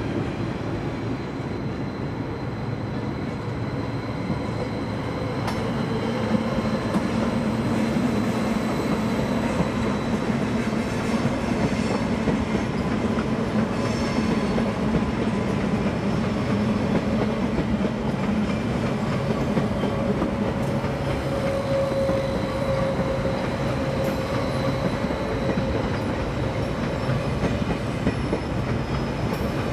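SBB double-deck electric commuter train rolling past over the station's points, wheels clattering on the rail joints over a steady rumble with a faint whine. It grows louder about six seconds in.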